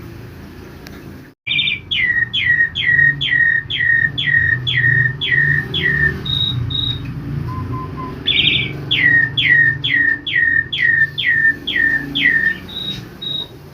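Jalak suren (Javan pied starling) calling: a run of about nine quick whistles, each sliding sharply downward, about two a second, ending in two short high notes. The phrase repeats after a short pause over a steady low background hum. It starts abruptly about a second and a half in.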